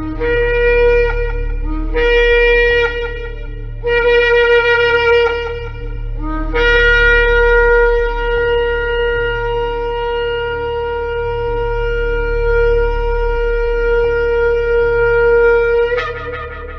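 Shofar (ram's horn) blowing three short blasts, then one long held blast that jumps up in pitch just before it ends. A low steady hum runs underneath.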